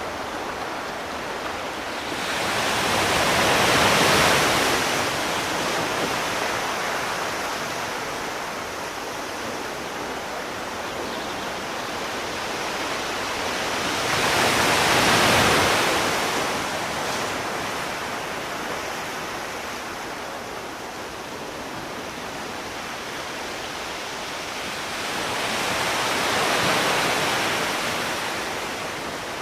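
Sea waves coming in: three slow surges, about four seconds in, midway and near the end, each swelling and fading over several seconds above a steady wash of water.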